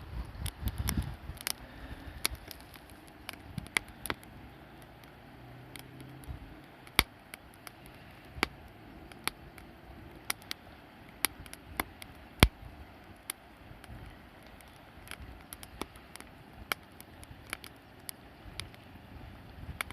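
Wood campfire crackling, with irregular sharp pops, two of them louder than the rest.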